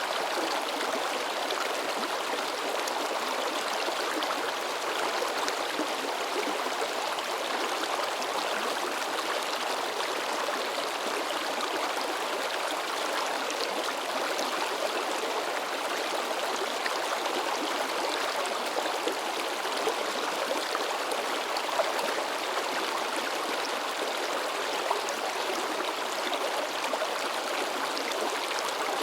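Babbling mountain stream running over rocks: steady splashing and gurgling water with small splashes here and there.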